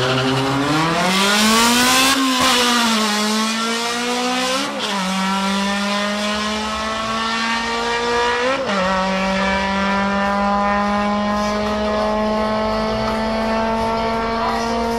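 Naturally aspirated Honda Civic drag car at full throttle down the strip. The engine note climbs steadily through each gear and drops sharply at upshifts about 2, 5 and 9 seconds in, then holds the last gear to the end.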